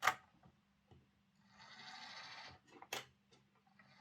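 Clicks as the OO gauge Lima Class 55 Deltic model is set on the test track, with a brief whirr of its small DC motor about a second and a half in, lasting about a second.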